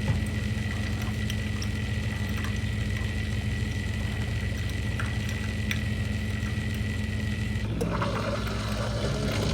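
A steady low machine hum with a faint high whine that cuts off about three-quarters of the way through, and a few light clicks.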